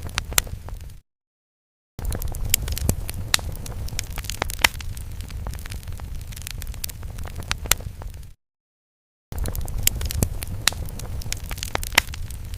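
Fire sound effect: a low rumble of burning flames with frequent sharp crackles and pops. It cuts out to dead silence for about a second twice, about a second in and again about eight seconds in, each time resuming as the loop restarts.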